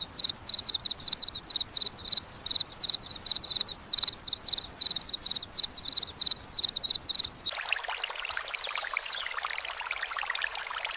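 Cricket chirping in a steady high pulse, about four chirps a second. About seven and a half seconds in it cuts off abruptly and gives way to a steady hiss of rain or falling water.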